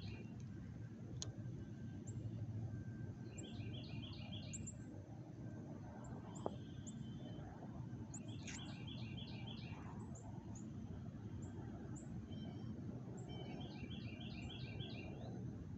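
A songbird repeating a short phrase of five or six quick, even notes about every five seconds, with faint high chirps between phrases, over a steady low outdoor background noise. A single sharp tick comes about six and a half seconds in.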